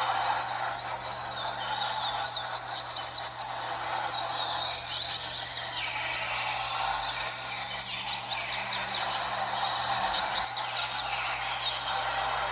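Many double-collared seedeaters singing at once: a dense, overlapping chorus of quick high chirps and trills over steady background noise.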